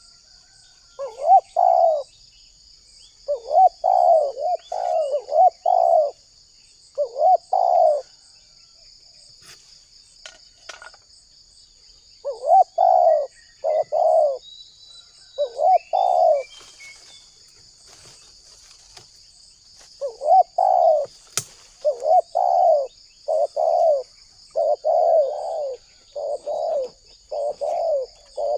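Spotted dove (tekukur) singing its cooing song: groups of low, hooting coos in several bursts separated by pauses, coming more steadily in the last third. A steady high insect trill runs underneath.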